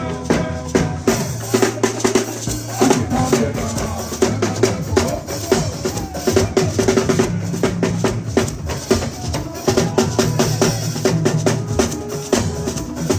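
Live Yoruba party-band dance music, driven by a busy drum kit and percussion over a walking bass line, with dense even drum strokes throughout.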